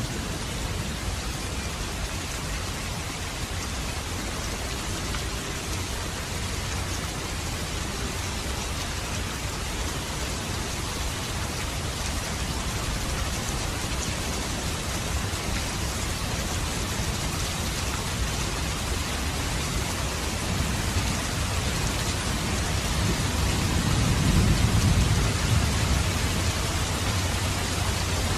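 Steady rain falling, with a low rumble of thunder that swells and fades near the end.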